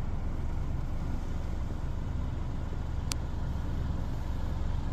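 Car engine running steadily, a low rumble heard from inside the car, with one brief click about three seconds in.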